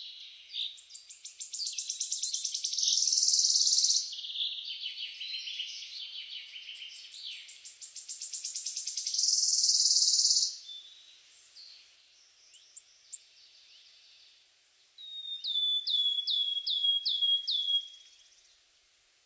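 A small songbird singing: two long phrases of fast, high-pitched trills and chatter, then a few thin single notes and, near the end, a run of about seven quick downward-slurred whistles.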